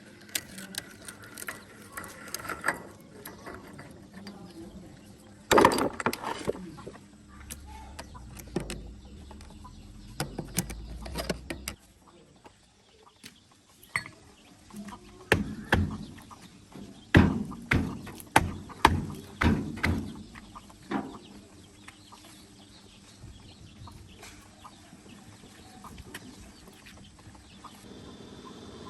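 Metal tools knocking and clanking on tractor brake parts, with ratchet-like clicking. There is one loud knock about six seconds in and a quick run of knocks past the middle.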